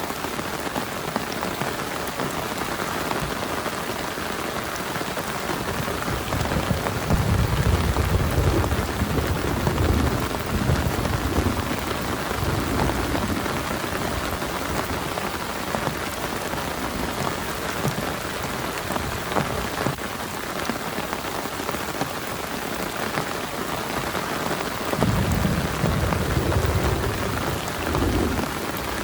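Heavy rain falling steadily. Low rolls of thunder come in about six seconds in and rumble for several seconds, and a shorter roll comes near the end.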